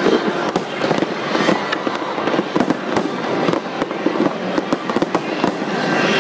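Fireworks display going off in quick, irregular succession: many overlapping bangs and crackles with no pause between them.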